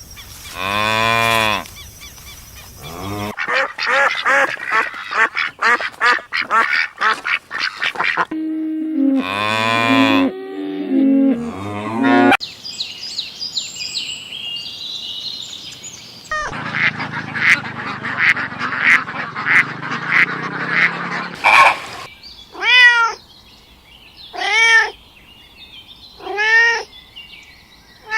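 A string of farm animal calls, one clip after another: ducks quacking in fast runs, with other pitched calls between, and near the end three separate drawn-out calls.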